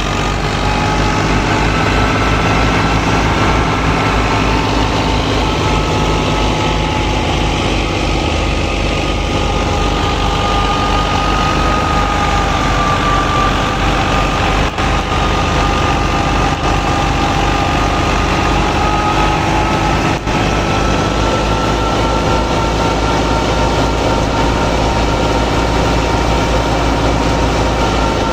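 A motor or engine running steadily, with two high tones that drift slowly up and down in pitch over a low rumble.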